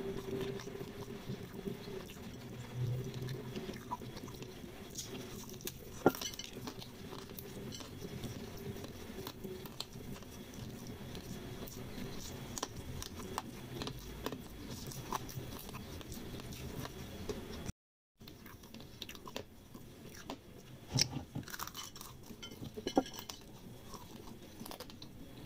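Close-up chewing and crunching of crispy fried instant noodles, with scattered small crackles and clicks from biting and fingers on the food. The sound cuts out briefly a little after two-thirds of the way through.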